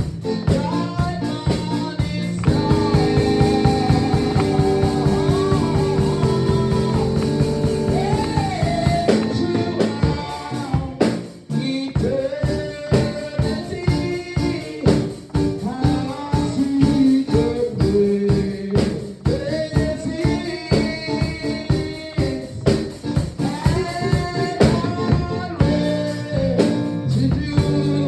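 Worship song: singing over a band with drum kit and guitar keeping a steady beat, briefly dropping back about eleven seconds in.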